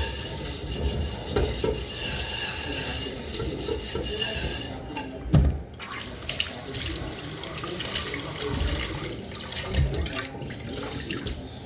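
A tap runs into a sink while dishes are washed by hand, with dishes clinking and knocking; one louder knock comes about five seconds in.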